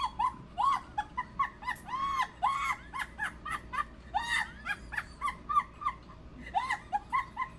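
Fowl calling: a rapid run of short, arching honks and squawks, several a second, with a brief lull around six seconds in.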